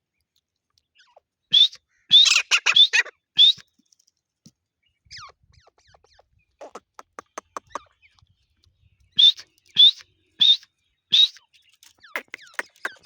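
Grey francolin (desi teetar) calling: loud, sharp notes given in a cluster, then a quick run of short ticking notes about halfway through, then four evenly spaced calls and more notes near the end.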